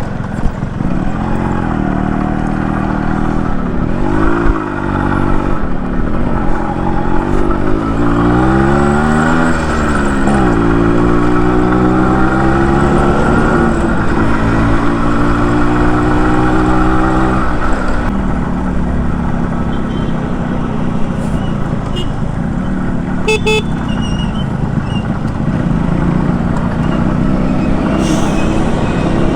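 Yamaha RX100 two-stroke motorcycle engine under way, its pitch climbing and dropping several times as it accelerates and shifts through the gears, then settling into a steadier road rumble after about eighteen seconds.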